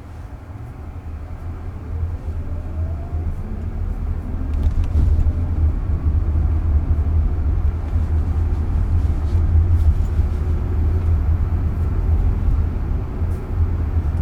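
Road and tyre rumble inside the cabin of a Waymo self-driving electric car, growing louder over the first few seconds as it picks up speed. A faint rising motor whine comes through about two seconds in.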